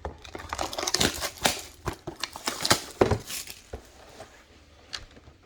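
Plastic wrap being torn and crumpled off a sealed box of trading cards: a run of crinkling and crackling for about three and a half seconds, then a few faint clicks.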